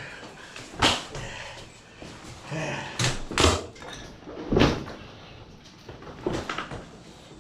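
Several separate sharp knocks and bangs a second or two apart, from a piece of furniture being handled and knocked about by hand.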